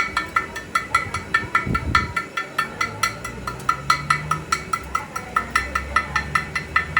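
Rapid metal-on-metal hammering, about five even strikes a second, each ringing briefly, with a low thud about two seconds in.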